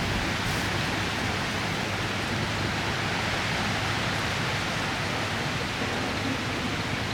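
Heavy rain and strong wind making a steady, even hiss.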